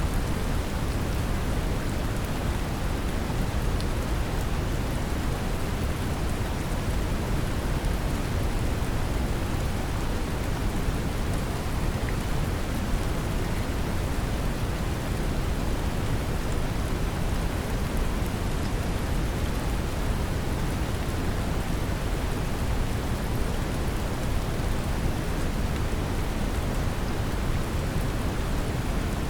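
Steady brown noise, a deep, even rumbling hiss, mixed with the patter of gentle rain.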